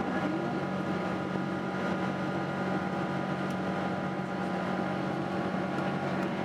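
Boeing 777-200 in flight, heard from inside the cabin: a steady drone of jet engines and rushing air, with a constant hum running through it.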